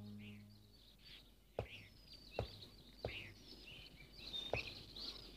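Faint birds chirping, short calls about once a second, while a held low background-music note fades out in the first second or two.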